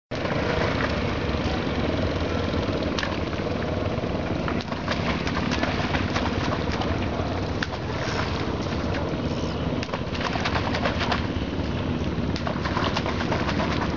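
Outdoor ambience of a bird calling over a steady low rumble, with scattered small clicks and crackles throughout.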